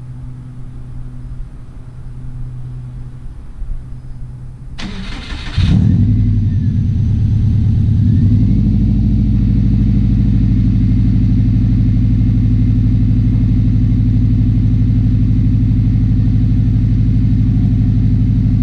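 Turbocharged car engine cranked over by the starter about five seconds in, catching at once and settling into a steady idle through a new stainless exhaust with catalytic converter and muffler, the revs dipping and recovering briefly before holding. The exhaust note is mellow, not raspy or metallic. A low steady hum comes before the start.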